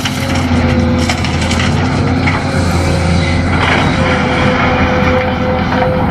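Remote-control toy excavator's electric motors running with a steady whine and hum, the pitch holding with brief dips as the controls change.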